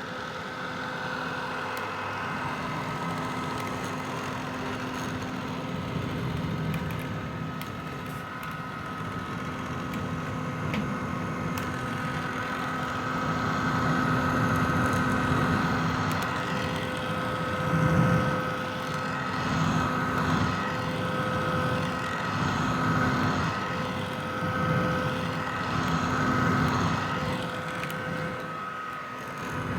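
Vintage hair dryer running continuously: a steady motor and fan whir with a constant whine on top. It gets somewhat louder and wavers in level from about halfway through.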